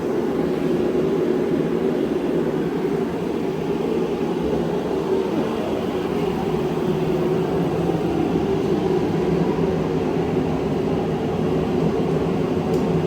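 Plug-in gas space heater running, its fan and burner giving a steady, even rumble.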